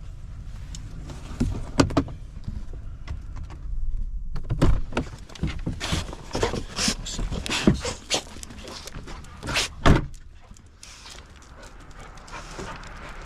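A dog panting and moving about, with scattered clicks and knocks; the sharpest knocks come about two seconds in and again near the end.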